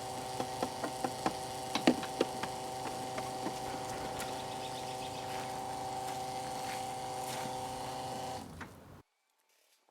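Small electric fuel transfer pump running on the tractor's battery with a steady whine, while knocks and clicks from the nozzle and hose handling come through in the first few seconds. The pump shuts off about eight and a half seconds in.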